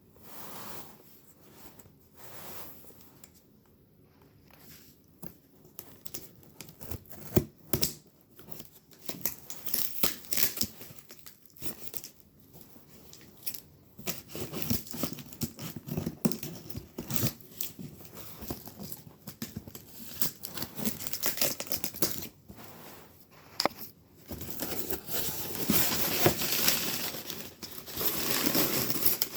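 Packaging being torn open and crinkled by hand during an unboxing: scattered rustles and tears at first, turning into steady, denser crinkling and tearing in the last few seconds.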